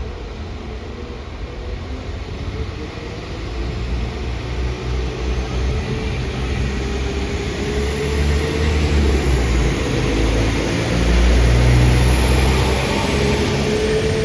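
A train approaching and passing, its low engine drone and running noise growing steadily louder, with a wavering mid-pitched whine.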